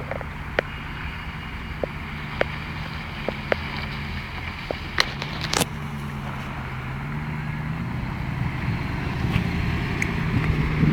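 The 1993 Jeep Grand Cherokee's 5.2-litre V8 running at low throttle as it crawls over rough sandy ground, its pitch wavering and the sound growing louder in the last few seconds. Several sharp clicks or knocks come in the first half.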